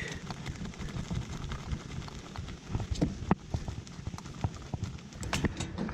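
Scattered light clicks and knocks of parts being handled on a generator enclosure, over a steady hiss of rain.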